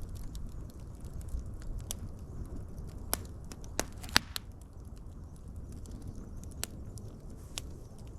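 Wood fire crackling, with a steady low rumble of burning and irregular sharp pops and snaps, a few louder ones near the middle.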